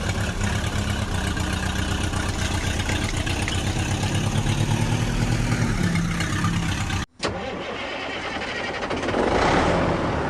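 Tractor engine idling with an even pulse. About seven seconds in the sound cuts out for an instant and comes back as a different engine sound, with a hiss that swells near the end.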